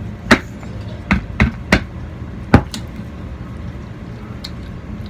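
A handful of sharp clicks and knocks in the first half, the loudest about two and a half seconds in, as things are handled at the eating table, over a steady low room hum with a few faint ticks after.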